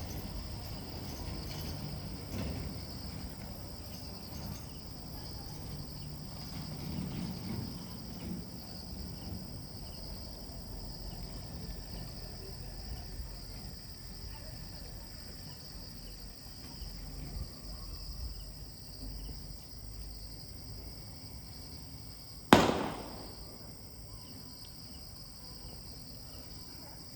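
Steady high-pitched chorus of insects such as crickets over a low outdoor rumble. About twenty-two seconds in comes one sharp bang or crack, the loudest sound, dying away quickly.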